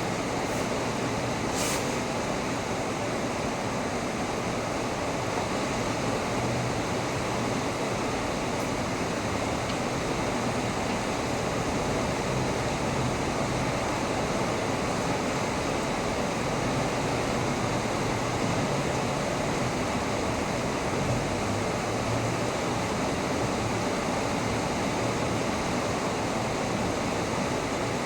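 Heavy rain falling steadily, an even rushing hiss at constant strength, with a couple of faint sharp ticks in the first two seconds.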